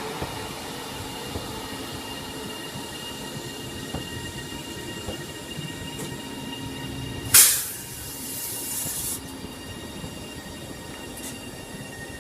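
Electric multiple unit train at the station with a steady electrical whine and rumble. About seven seconds in, a sudden loud hiss bursts out and carries on for nearly two seconds before stopping.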